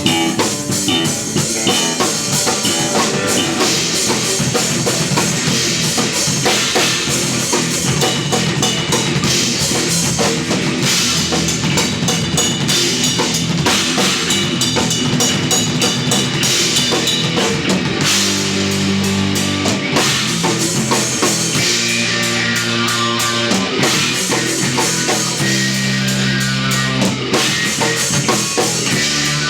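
Instrumental progressive/post-rock played live by a trio of drum kit, electric bass and electric guitar, with busy drums and cymbals throughout. About two-thirds of the way in, the bass settles into long held notes that change every couple of seconds.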